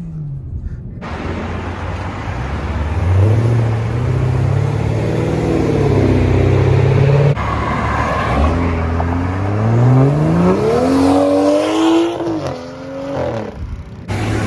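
Car engine running with a steady note, then, after an abrupt break about halfway through, accelerating with its pitch rising steadily for several seconds before easing off near the end.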